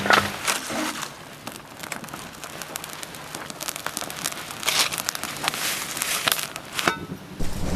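Irregular crackling and crinkling, a scatter of small sharp clicks. Near the end a low rushing noise comes in.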